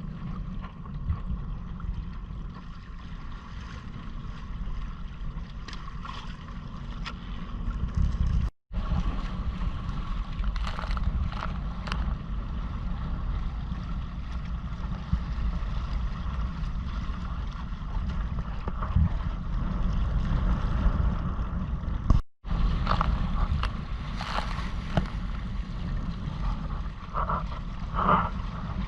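Wind buffeting the microphone over water splashing and lapping against the hull of a Hobie Island sailing kayak under way. The sound cuts out completely for an instant twice.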